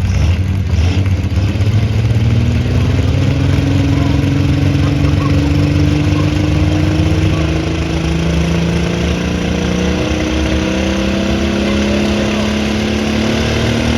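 Engine of a pulling vehicle running hard under load as it drags the sled, its pitch climbing slowly and steadily.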